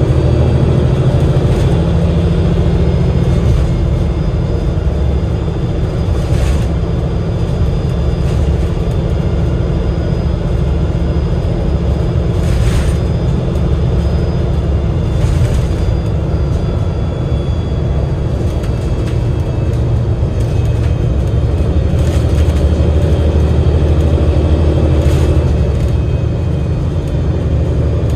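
Double-decker bus heard from on board: the Cummins L9 inline-six diesel and Voith DIWA automatic gearbox running under way, a steady low rumble with faint steady whines above it. A few brief knocks or rattles come through, about six, twelve and a half, fifteen and twenty-five seconds in.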